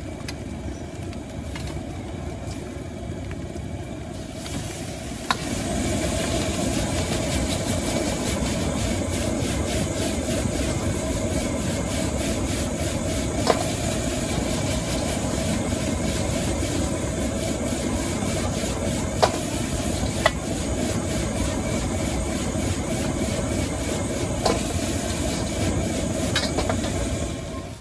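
Stir-frying in a wok over a gas burner: a steady burner rumble with sizzling hiss that becomes louder about five seconds in. A few sharp clanks of a metal spatula strike the wok, and the sound drops away just before the end.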